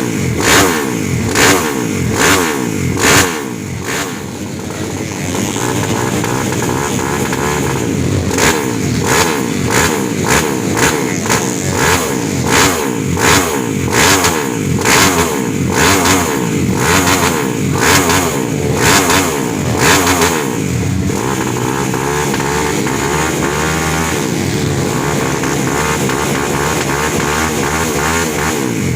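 Kawasaki KLX dirt bike's single-cylinder four-stroke engine running and being revved in short, quick throttle blips, with stretches of steadier running between the bursts.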